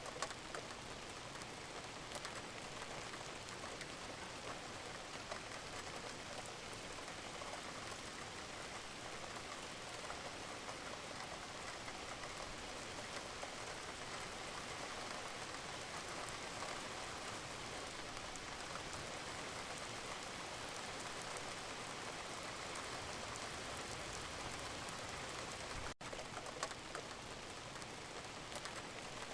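Steady rain falling, an even hiss with scattered drops ticking on a surface. The sound cuts out for an instant near the end.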